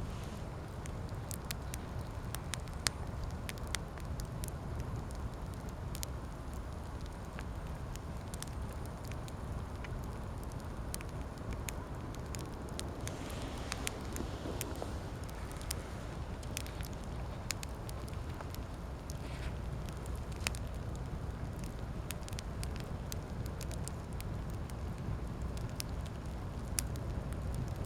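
Wood campfire crackling, with sharp pops scattered irregularly over a steady low rumble.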